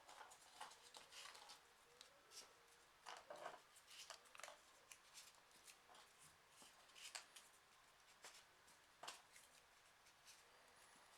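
Faint rustling and soft ticks of folded printer-paper pieces being handled and pushed into the pockets of a 3D origami model, in short irregular bursts.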